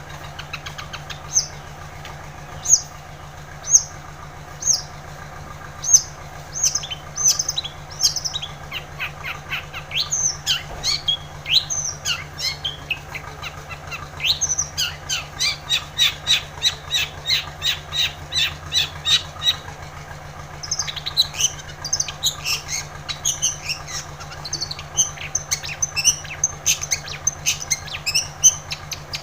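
Long-tailed shrike (cendet) singing hard: first single sharp, harsh notes about once a second, then fast chattering runs of rapidly repeated notes with varied phrases, pausing briefly about two-thirds of the way through.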